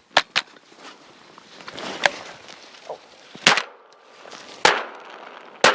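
A string of sharp shotgun reports from hunters shooting at teal, about six in all, two close together at the start and the rest spaced a second or so apart.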